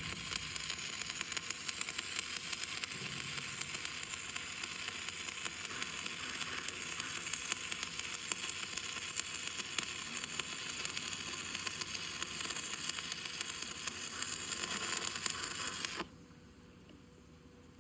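Stick-welding arc burning a 7024 Jetrod electrode: a steady, dense crackling sizzle that stops abruptly about sixteen seconds in as the arc is broken.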